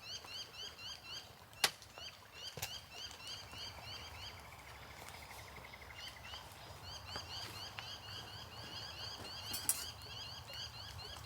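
Small birds chirping in rapid repeated series of short rising notes, with a trill partway through. A few sharp clicks, the loudest about a second and a half in, over a low steady rumble.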